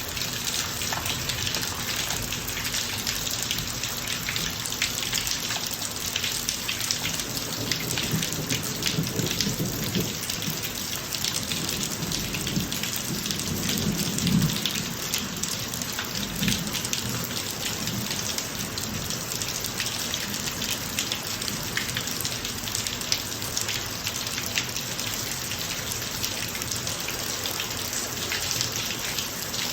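Steady heavy rain pattering on a driveway, dense with fine drop ticks. A low rumble of thunder builds about a third of the way in, peaks near the middle and dies away.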